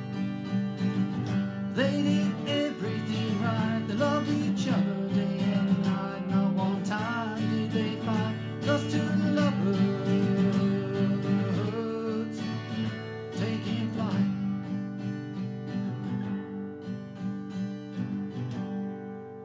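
Strummed acoustic guitar chords with a wavering melody line over them, playing the song's instrumental ending. After about 14 s it thins out and fades, ending on a ringing chord.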